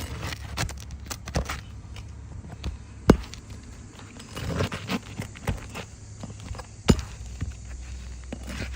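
Hand work on an asphalt roof shingle while its nails are being worked out: scattered scraping and clicking, with two sharp knocks about four seconds apart.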